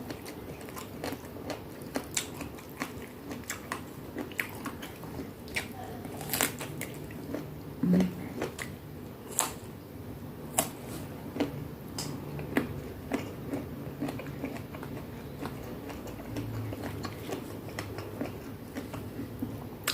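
Close-up chewing of crunchy food, with many sharp crunches at irregular intervals.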